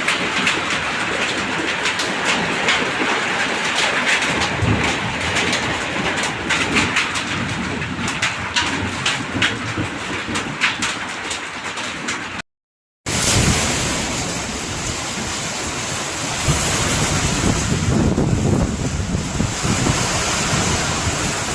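Heavy monsoon rain falling, a steady hiss with a clatter of drops through the first half. After a sudden cut about halfway, a steadier rush of rain with low rumbling wind on the microphone, louder near the end.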